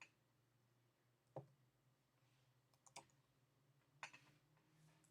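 A handful of faint, scattered computer clicks from someone working a search on a computer, over near silence with a low steady hum.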